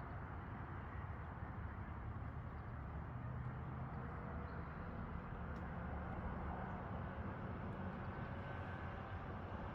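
Steady low rumble of outdoor background noise, with a faint hum running through it.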